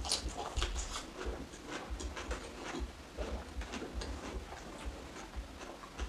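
Close-miked chewing of crisp raw cucumber with the mouth closed: a run of small, irregular crunches and wet clicks.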